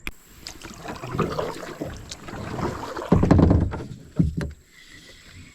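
Irregular knocks and bumps on a kayak hull as the boat and gear are handled, with a louder stretch of thumping about three seconds in and a sharp knock a second later.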